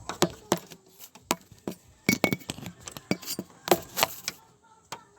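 Metal hand tools clinking and knocking against each other and on engine parts: a string of irregular sharp metallic clicks, loudest in two clusters about two seconds in and near four seconds.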